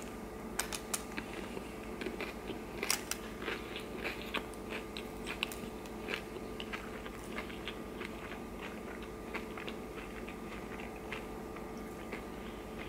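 Close-up chewing of a crunchy hard-shell beef taco: a run of crisp crackling crunches, dense at first and thinning out toward the end as the mouthful is chewed down.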